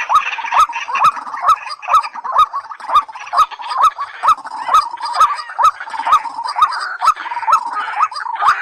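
Rapid, evenly repeated calls of a white-breasted waterhen: a string of short rising notes, about two and a half a second.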